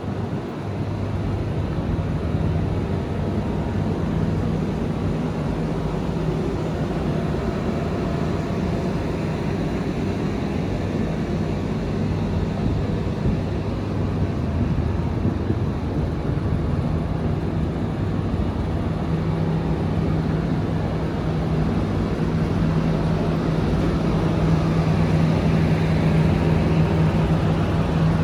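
90-ton rooftop packaged air-conditioning units running: a steady rush of fan noise over a low hum, the hum growing stronger and the whole a little louder in the last several seconds.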